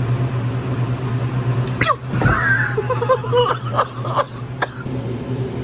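Several short, non-speech vocal outbursts from a person, starting about two seconds in, over a steady low hum.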